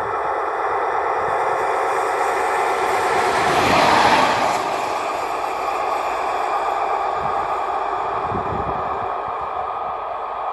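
A train passing by, a continuous rolling rumble that swells to its loudest about four seconds in and then eases off slightly.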